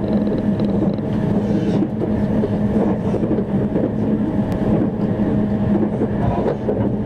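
Limited express train running at speed, heard from inside the passenger cabin: a steady rumble of wheels on rails with a constant low hum.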